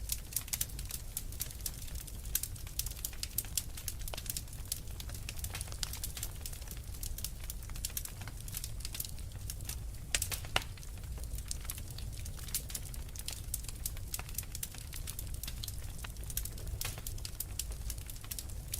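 Wood fire burning in a fireplace: a low steady rumble of flames with frequent irregular crackles and pops from the burning logs.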